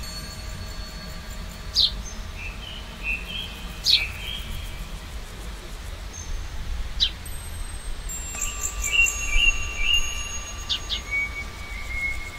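Bird calls: short sharp downward-sweeping calls every two or three seconds and brief runs of chirps, over steady chime-like ringing tones and a low rumble.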